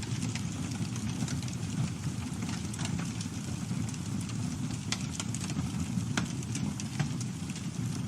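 Campfire burning: a steady low rush of flames with irregular crackles and sharp pops from the burning wood, several a second.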